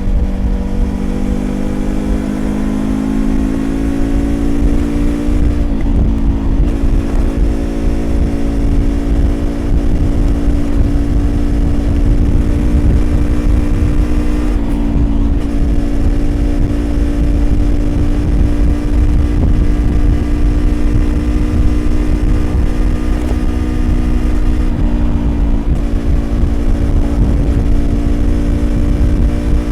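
Yamaha YZF-R25's 250cc parallel-twin engine through an aftermarket Prunus exhaust, revving up over the first few seconds and then holding a steady cruising pitch, with a heavy low rumble underneath.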